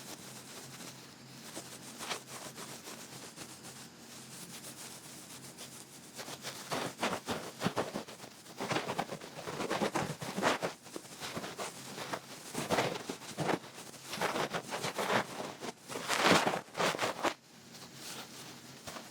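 Duck-feather ear pick rubbing and scratching in close against the ear, in clusters of quick strokes. The strokes are faint and sparse at first, then denser and louder from about six seconds in, with the loudest bursts near the middle and toward the end.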